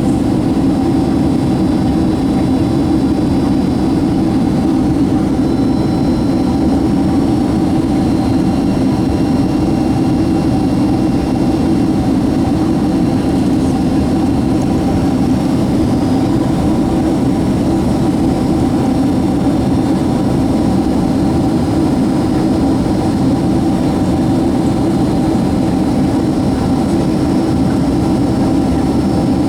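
Boeing 767-200's jet engines running steadily, heard as a constant low rumble inside the cabin with a few faint steady whines above it.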